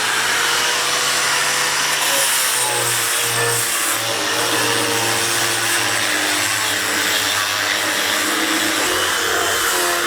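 Handheld electric power tool running steadily at full speed after switching on, a loud whirring motor whose pitch wavers slightly as it works.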